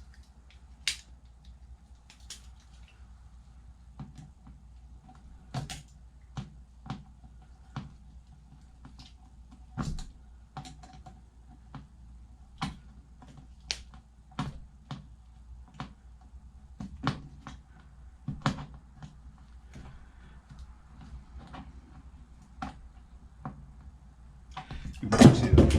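Irregular clicks and knocks of a hose clamp being tightened by hand with a tool, a couple of dozen spread out with pauses between them, over a faint steady hum. A louder clatter near the end.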